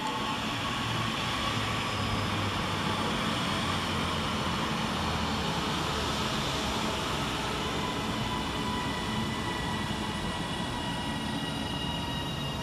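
Northern Class 331 electric multiple unit moving through the station: steady rolling and traction noise with faint thin whining tones over it.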